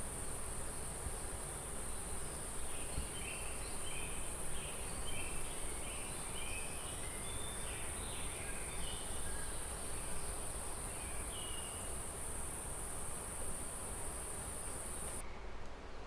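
Steady high-pitched drone of insects, with a scatter of short bird chirps in the middle. The insect drone cuts off suddenly near the end, over a low steady background hiss.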